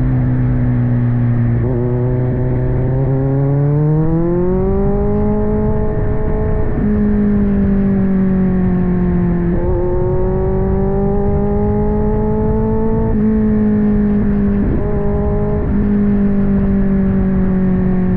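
Kawasaki Z900's inline-four engine through an aftermarket AR exhaust, riding under way. Its pitch climbs as the bike accelerates about four seconds in, then holds at steady cruising revs with a few brief dips in revs.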